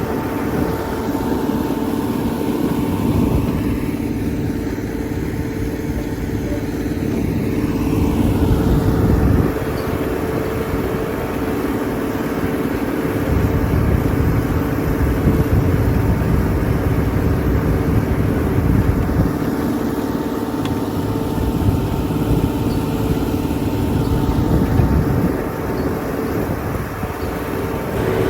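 T-150K tractor's diesel engine running steadily, with its deep rumble swelling and easing several times as the load changes.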